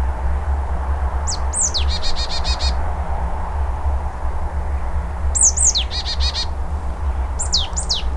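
Marsh tit calling three times: each call is two sharp, high falling notes, and the first two calls run on into a quick string of buzzy notes. A steady low rumble lies underneath.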